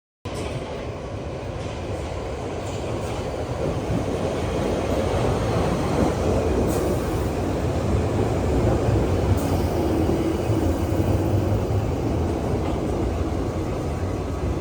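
Passenger train running along the rails, a steady rumble that starts abruptly just after the start, with a few faint ticks over it.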